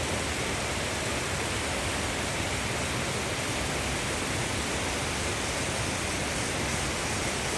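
Waterfall: a steady rush of falling water with no break or change.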